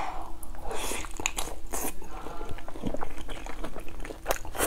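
Close-miked eating: a bite into a soft, sauce-soaked dumpling followed by chewing, with many small wet mouth clicks and smacks.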